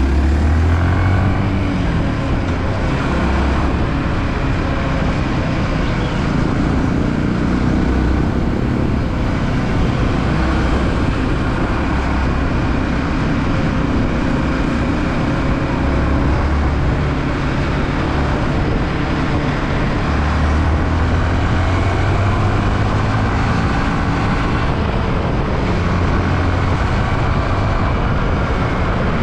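Yamaha WR155 single-cylinder motorcycle engine running while riding, under a steady rush of wind on the microphone, its pitch drifting slowly up and down.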